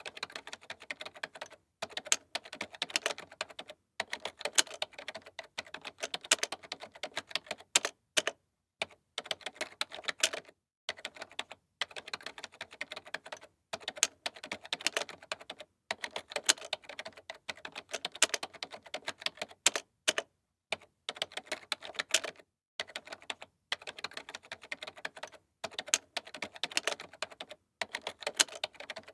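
Computer keyboard being typed on: fast runs of key clicks broken by short pauses every second or two.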